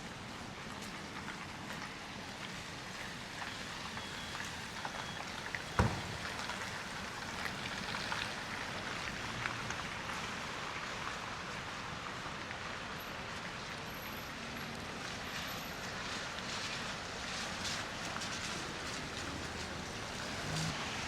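Steady outdoor street noise, an even rain-like hiss of traffic on a snow-slushed city street, with one sharp knock about six seconds in.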